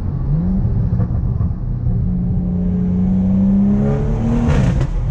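BMW 340i's B58 turbocharged inline-six, with a muffler delete and cattless downpipe, revved up and held high with the pitch creeping upward, then let off near the end with a burst of loud exhaust pops and crackles.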